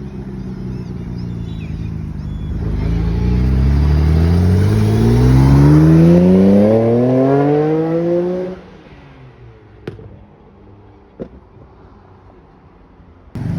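A car's engine accelerating hard away, its pitch rising steadily in one long pull for about six seconds, then dropping away suddenly about eight and a half seconds in, leaving only quiet background with two short clicks.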